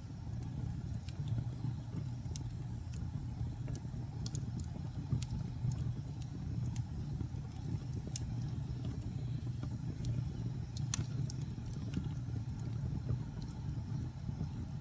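Wood fire burning in a fireplace: a steady low rumble of the flames with scattered sharp crackles and pops, one louder pop about eleven seconds in.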